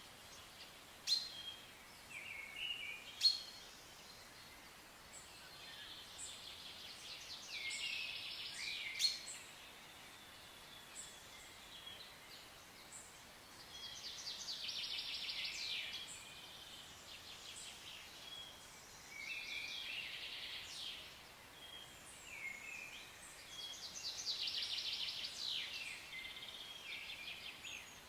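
Birdsong: a bird repeats a fast trilled phrase about four times, each lasting about two seconds, with a few sharp chip calls in the first ten seconds. A faint steady hiss sits underneath.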